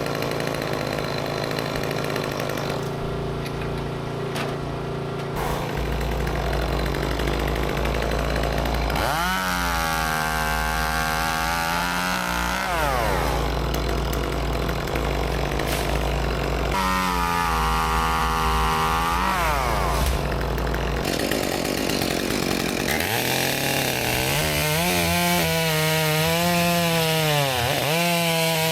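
Gas chainsaw idling and then revving to full throttle to cut wood, three long cuts about 9, 17 and 24 seconds in, its pitch climbing at the start of each and dropping back to a lower running speed between them.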